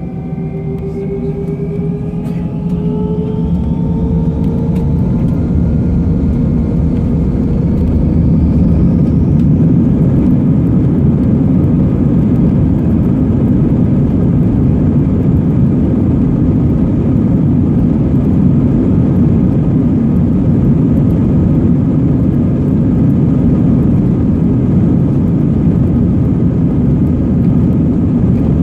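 Airbus A321 jet engines spooling up to takeoff thrust, heard from inside the cabin: a whine rising in pitch over the first few seconds, then a steady loud roar for the rest of the takeoff run.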